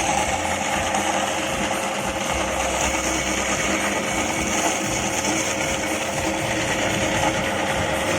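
Soybean cracking and dehulling machine running steadily, a dense mechanical noise with a constant hum under it.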